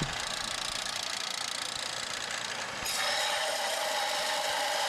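Handheld power tool running against the cut end of a steel exhaust pipe, smoothing and squaring the cut. About three seconds in it grows louder and a steady whine comes in.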